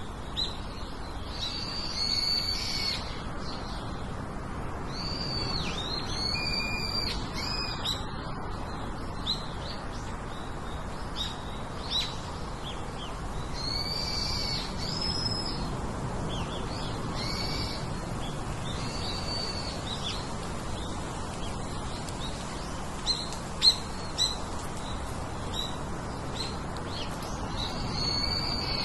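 Birds calling: repeated short, arched chirps in clusters with pauses between, over a steady background hiss.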